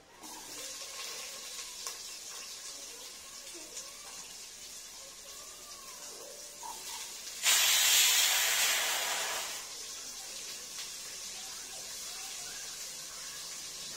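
Cinnamon and cloves sizzling steadily in hot oil in a pan; about seven and a half seconds in, chopped onion goes into the oil with a sudden loud sizzle that dies back to the steady frying level about two seconds later.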